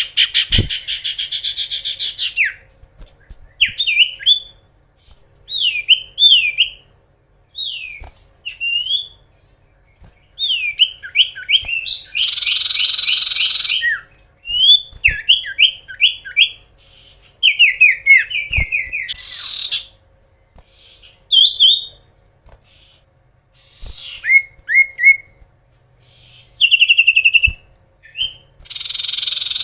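Common iora (cipoh) singing loudly: strings of short whistled notes that slide down in pitch, broken by several harsh, buzzy chattering bursts, each lasting one to two seconds.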